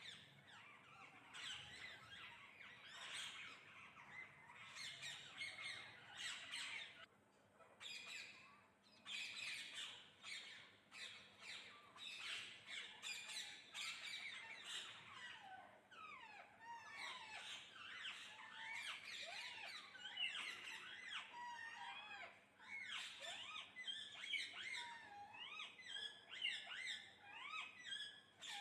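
Several parrots squawking and chattering at once, many overlapping short calls that rise and fall in pitch.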